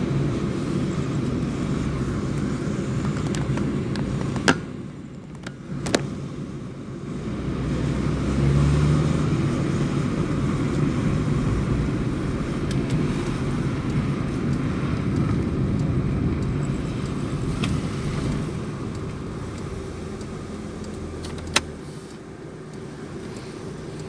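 Chevrolet Celta's VHC-E 1.0 four-cylinder engine running through its stock exhaust while driving. The drone drops off about four seconds in, pulls back up around eight seconds, holds steady, and eases off near the end. Three sharp clicks: two early on and one near the end.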